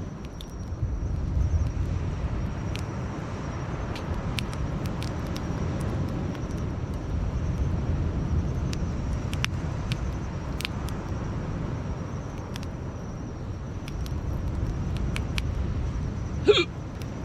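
Campfire crackling, with scattered sharp pops over a steady low outdoor rumble, and one brief louder sound near the end.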